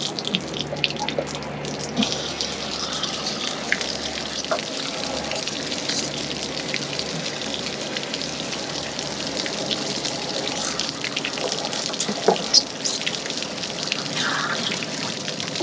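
Water pouring and splashing steadily out of an RV water heater tank through the open anode port as the tank drains. A sharp knock sounds once about twelve seconds in.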